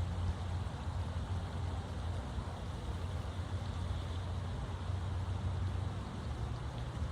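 Steady outdoor background noise: a low rumble with a soft hiss above it.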